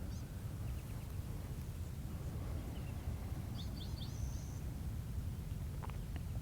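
Quiet outdoor ambience: a steady low rumble with a few faint bird chirps, a quick cluster of them about four seconds in.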